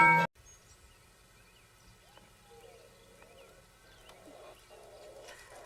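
Xylophone-like music stops abruptly just after the start, then faint animal calls: short chirps and brief pitch glides, growing slightly louder near the end.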